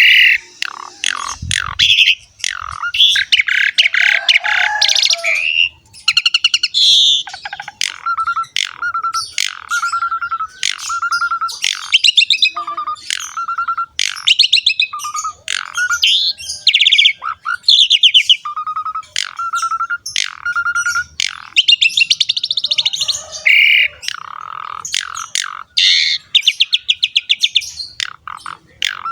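Pied starling (jalak suren) singing a long, varied song without pause: fast chattering and harsh buzzy rattles mixed with a clear whistled note repeated over and over at the same pitch.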